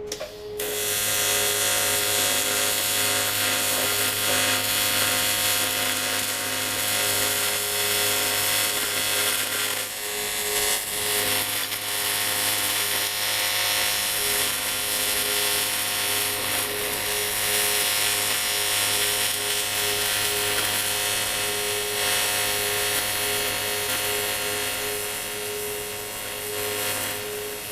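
TIG welding arc on cast aluminium alloy, a steady buzzing hiss with a hum, held through one long weld bead. It starts about half a second in and cuts off near the end.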